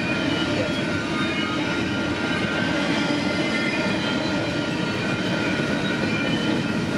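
Freight train cars rolling past close by, with a steady rumble of steel wheels on the rails.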